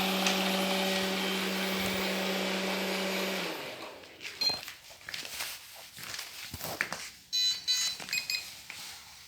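Ilife V55 Pro robot vacuum running with a steady motor hum that stops about a third of the way in, followed by scattered clicks and knocks and a few short high-pitched tones.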